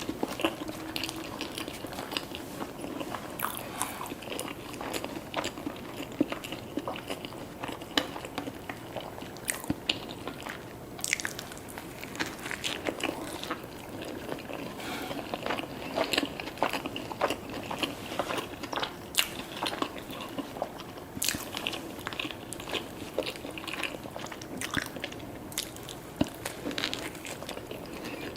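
Close-miked eating of fast food: repeated bites and crunchy chewing, with frequent sharp clicks and mouth smacks.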